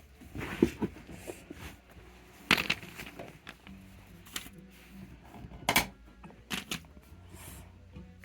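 Scattered clicks and knocks of small plastic fidget toys being handled and set down. The loudest knocks come about two and a half and six seconds in.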